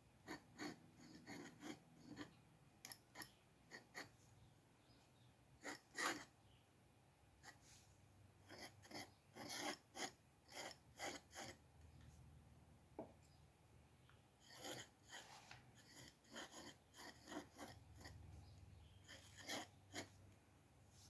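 Quiet scratching of a drawing tool on paper: clusters of short, quick strokes, the sharpest about six seconds in.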